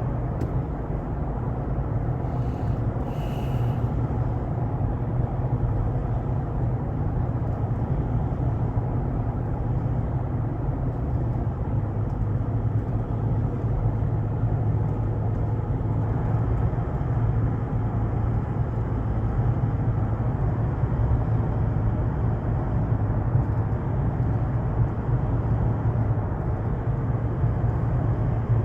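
A car driving on the highway: steady engine and road noise with a low hum, and a short higher-pitched sound about three seconds in.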